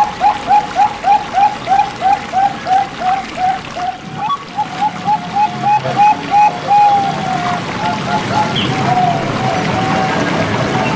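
Zebra dove (perkutut) cooing: a run of short hooked coo notes, about three a second, then a quicker run with a few drawn-out notes from about four seconds in. A steady trickle of running water goes on underneath.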